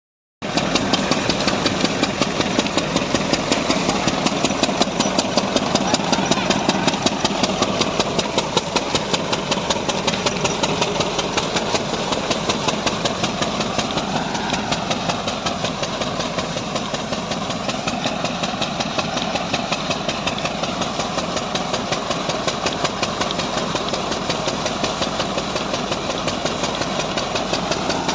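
10 hp Lister single-cylinder diesel engine running steadily, its firing strokes making an even, rapid knocking beat.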